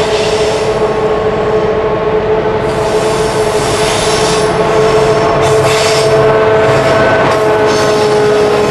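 A lashup of Clyde/EMD diesel-electric locomotives (a 22 class leading GM-class units) hauling a loaded grain train round a tight curve at close range, with a steady wheel squeal over the rumble of the engines and wheels. The sound gets a little louder about five seconds in as the locomotives pass.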